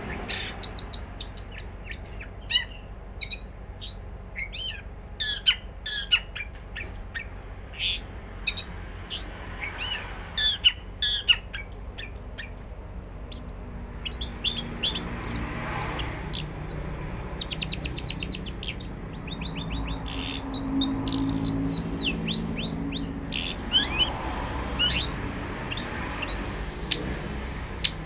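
Caged songbird singing: loud, sharp chirps and quick runs of descending notes, with a fast trill about three-quarters of the way through. It keeps singing even with a hand inside its cage.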